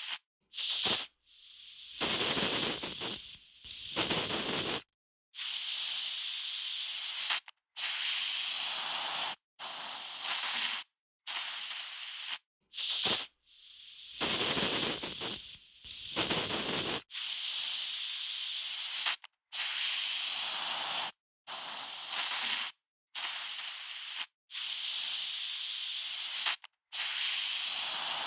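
Aerosol spray can sprayed in a long run of short bursts, each about one to two seconds of hiss, with brief silent gaps between.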